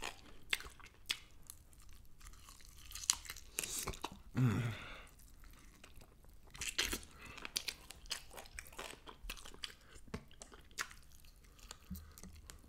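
A person chewing and biting fried chicken wing meat off the bone, with irregular crunches and wet mouth clicks. A short low hum comes about four and a half seconds in.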